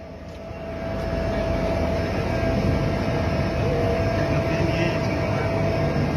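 Airplane engine noise heard from inside the cabin: a steady drone with a constant whine above it, swelling over the first second and then holding level.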